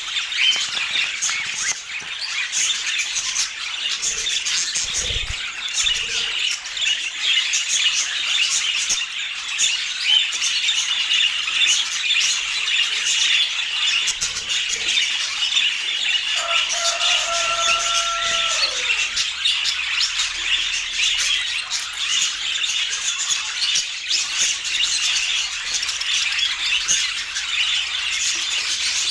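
Budgerigars chattering and squawking continuously in rapid, high-pitched warbles. About two-thirds of the way through, a steady held tone lasts about two seconds and dips in pitch as it ends.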